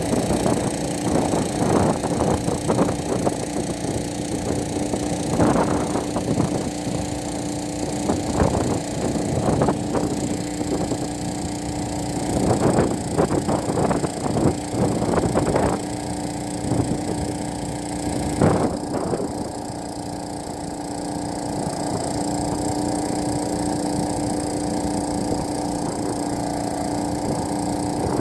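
Agricultural spraying drone's rotors humming steadily at one pitch, with irregular crackling knocks over roughly the first two-thirds, then the hum alone.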